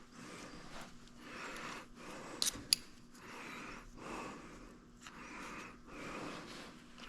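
A person breathing heavily close to the microphone in quick, regular breaths, about one a second. Two sharp clicks come about two and a half seconds in, over a faint steady hum.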